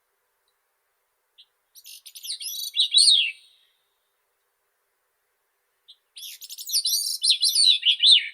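Grey-cheeked thrush singing: two high, thin, reedy song phrases of about two seconds each, separated by a pause of roughly two and a half seconds. Each phrase is preceded by a soft introductory note and slurs downward toward its end.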